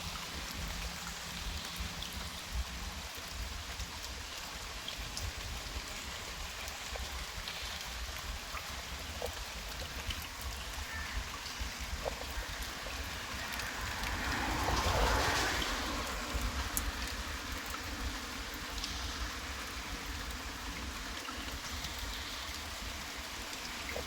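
Water flowing along a drainage channel into fields: a steady rush with small splashes, swelling louder for a couple of seconds about halfway through.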